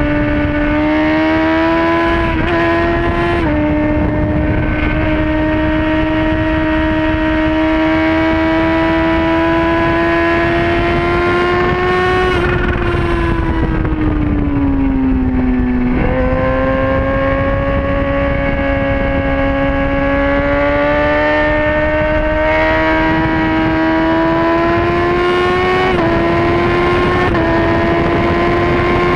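Sport motorcycle engine running hard at high revs on a racetrack, over heavy wind rush on the microphone. The pitch climbs with short drops at gear changes near the start, falls away for a few seconds about halfway through as the bike slows, then climbs again with two more upshifts near the end.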